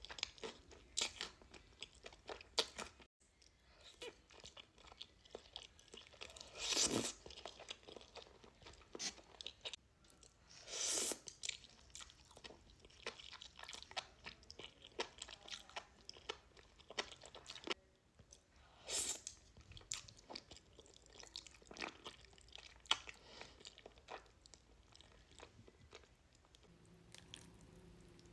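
Close-miked mukbang eating: a person biting, crunching and chewing food in irregular bites, with a few louder, longer bursts about 7, 11 and 19 seconds in.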